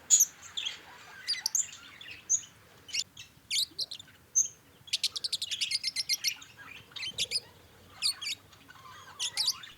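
Budgerigars chattering: short high chirps and warbles, with a quick run of rapid chirps about five seconds in.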